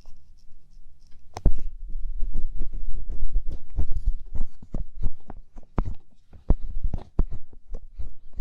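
Light-up ear pick scraping and tapping in an ear, heard very close: an irregular run of scratchy clicks with a low rumble under them from about a second and a half in.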